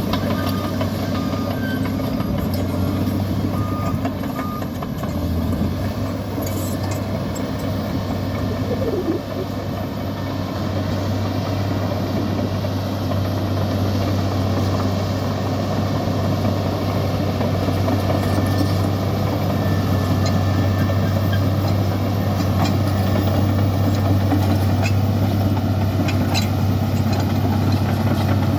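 Heavy diesel engine of a Komatsu bulldozer running steadily, with a deep constant hum. A short repeating beep sounds over it for the first few seconds.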